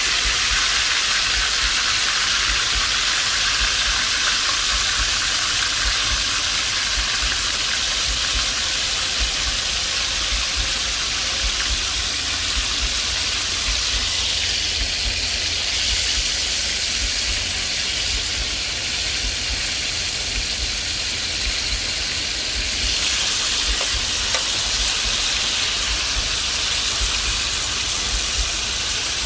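Oxtail sizzling as it fries in a pot, a steady hiss with no breaks.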